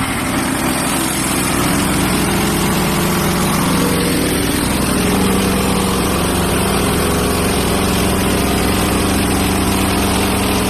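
Gasoline engine of a Hudson Patriot portable bandsaw mill running steadily while the mill saws a board off a pine log. The engine note shifts slightly about four seconds in.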